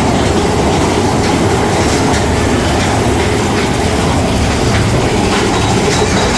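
Roller coaster train running along its track, heard from on board: a loud, steady rumble and clatter of the wheels on the rails.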